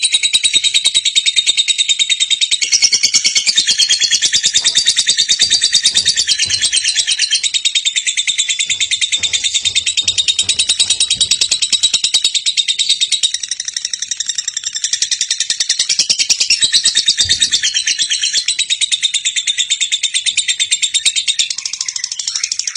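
Lovebird's long, unbroken chattering song (the 'ngekek'): a rapid, high-pitched stream of chirps that runs on without pause.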